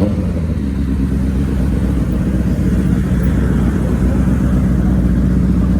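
A motor vehicle engine running steadily at idle close by: an even, low drone with no revving, easing off just after the end.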